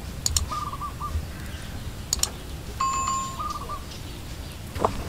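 A bird calling in short chirps at a steady pitch, twice, with a held whistle between them. Underneath is a low steady rumble, with a few sharp crackles from the wood fire.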